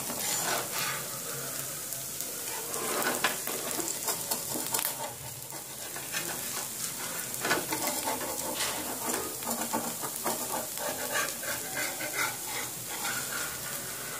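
Rava dosa sizzling in oil on a hot flat tawa over a lowered flame, a steady frying hiss, the dosa already cooked crisp. A metal spatula scrapes and taps against the pan a few times as the edges are loosened.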